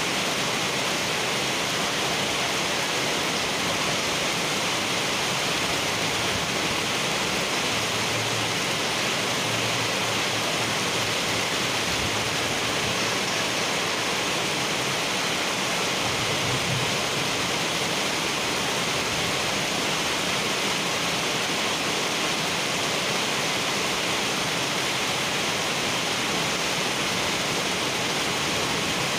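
Heavy rain pouring steadily onto a wet paved road: an even, unbroken hiss of splashing drops.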